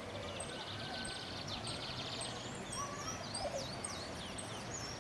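Several birds singing at once: a high thin note repeating steadily about every half second, a rapid buzzy trill for the first two and a half seconds, then whistled slurred notes.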